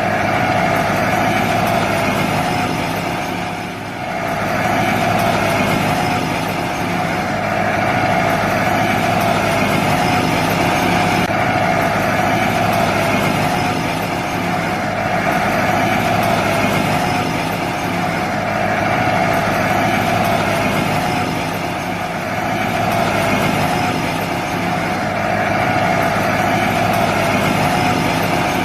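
A small motor running steadily with a constant high hum, dipping briefly in level a couple of times.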